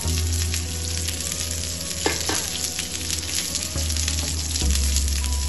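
Sliced onions and garlic cloves sizzling on a hot ridged grill pan, a dense, steady crackle of fat and moisture.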